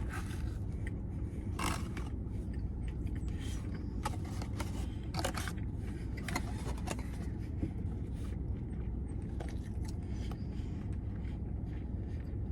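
Steady low hum with scattered short scrapes and rustles, typical of a burger and its wrapper being handled while eating.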